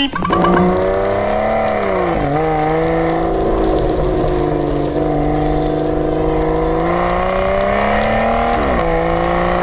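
Mountain bike's rear freehub buzzing loudly while coasting, an engine-like drone whose pitch follows wheel speed: it drops sharply about two seconds in and again near the end, then slowly climbs.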